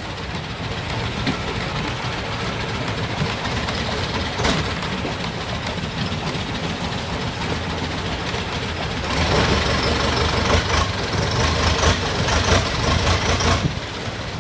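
Longtail boat engine running steadily, growing louder about nine seconds in and dropping back shortly before the end.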